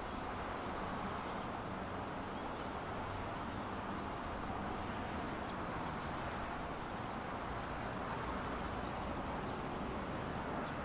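Steady low rumble and hum of a JR 115 series electric train at the station, running evenly without rising or falling.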